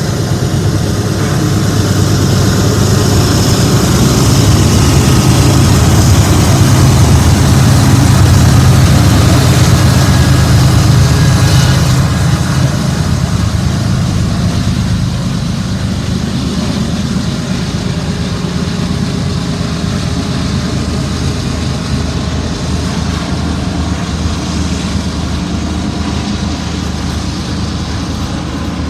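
Diesel-electric freight locomotives running, a deep steady engine drone that grows louder over the first several seconds, peaks, then eases slightly and holds steady.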